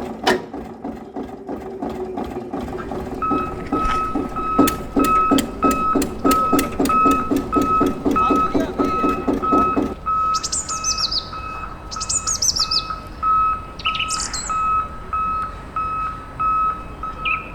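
A steady electronic beeping, about two beeps a second, runs over a pulsing mechanical hum and sharp clicks. From about ten seconds in the hum stops, and quick falling bird chirps come every second or two over the beeping.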